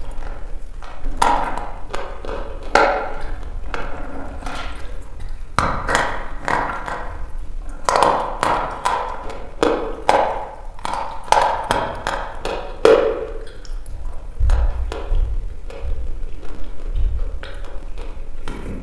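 Dry chalk being bitten and chewed: an irregular run of sharp cracks and crunches, with a few low thumps toward the end.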